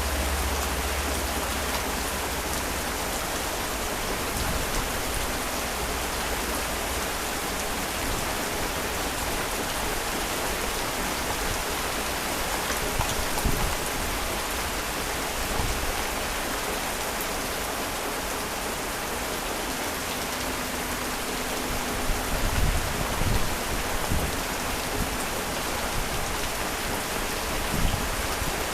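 Heavy rain falling steadily, an even hiss, with a few brief low thumps about halfway through and again near the end.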